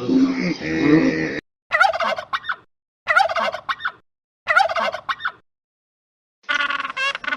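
Domestic turkey gobbling: three separate warbling gobbles about a second and a half apart. Before them a lower, rougher animal sound cuts off, and near the end another rapid warbling call begins.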